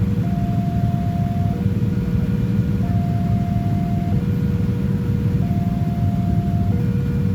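Level-crossing warning alarm sounding a slow two-tone hi-lo signal, each tone held a little over a second, over a loud steady low rumble.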